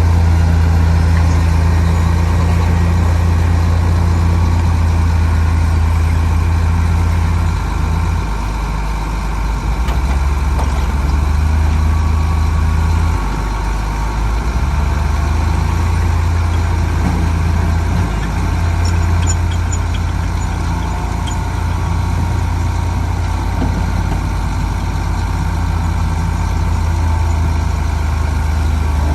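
Heavy earthmoving machine's diesel engine running steadily with a low rumble, its pitch and loudness shifting a few times as the load changes.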